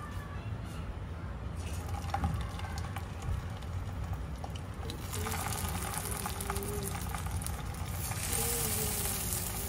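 Chicken shami kebab patties sizzling as they are laid into hot oil in a non-stick frying pan. The sizzle grows louder about five seconds in and again about eight seconds in as more patties go in.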